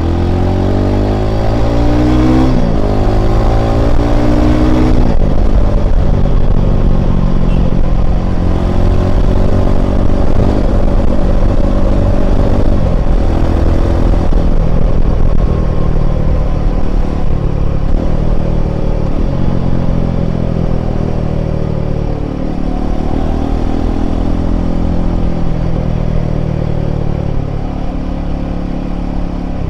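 Royal Enfield Himalayan 450's single-cylinder engine pulling a ridden motorcycle, rising in pitch and dropping back twice in the first five seconds as it shifts up through the gears, then running at a steadier speed with mild rises and falls of the throttle.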